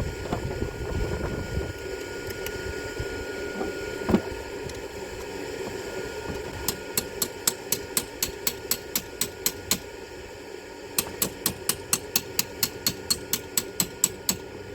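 Ratchet clicking in two runs of rapid, even clicks, about five a second, while a Heli-Coil is turned into a spark plug hole. A single knock comes about four seconds in, all over the steady drone of a shop fan.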